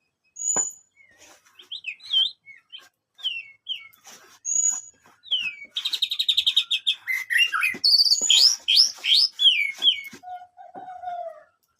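White-rumped shama (murai batu) singing a varied song of clear whistles and glides, with a fast trill in the middle and a lower drawn-out whistle near the end.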